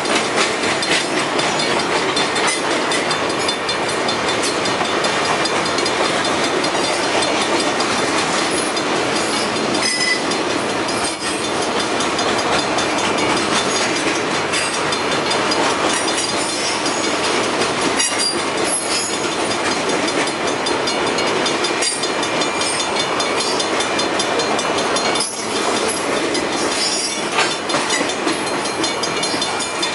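Freight train rolling steadily past a railway crossing: continuous rumble and clatter of the cars' wheels on the rails, with repeated clicks and a few brief high squeals.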